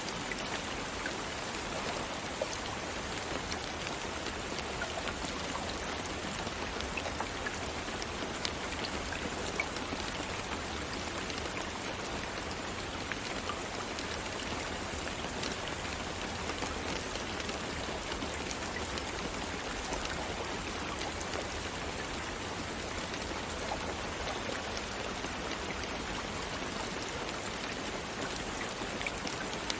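Steady rain: an even hiss with scattered sharper drop hits.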